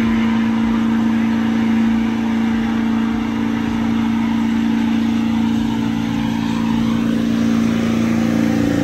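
Truck engine held at a steady high rpm, its pitch unchanging throughout, after being revved up.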